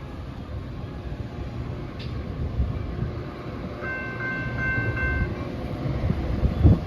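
Metra BNSF commuter train rumbling through the station. About four seconds in, a brief high ringing tone of several pitches sounds for about a second and a half, and near the end there is a loud thump.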